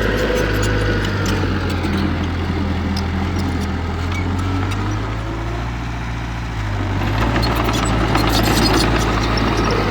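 Heavy diesel earthmoving machinery running steadily, with metal clanks and rattles; the engine eases off about five seconds in and picks up again a second or two later.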